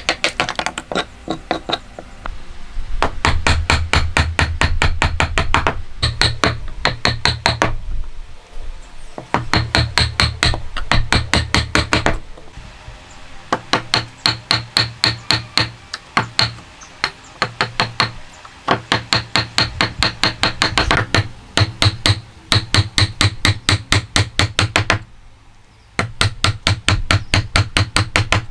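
Hammer striking in fast, even runs of blows, several a second, each run lasting a few seconds with short pauses between.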